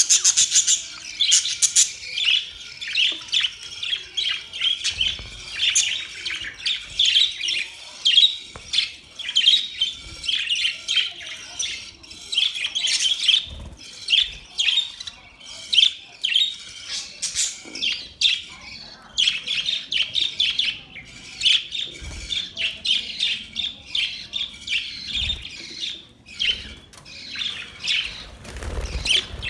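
Budgerigars chirping and chattering, a dense run of quick, high, overlapping warbles that never lets up.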